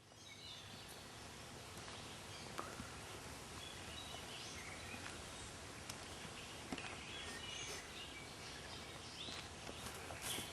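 Outdoor background noise: a steady hiss with faint, scattered short chirps and an occasional small tick.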